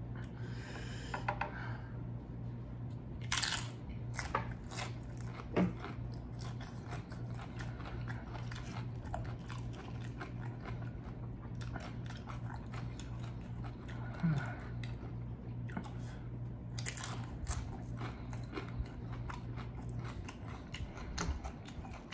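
Close-up chewing and biting of food, a run of small sharp mouth clicks with a few louder bites, over a steady low hum that stops near the end.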